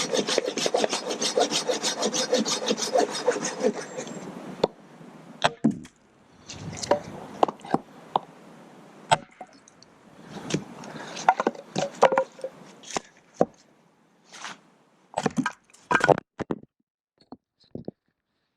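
Hand saw cutting through dead wood in fast, even strokes for about four and a half seconds, then scattered knocks and cracks of wood being broken and handled.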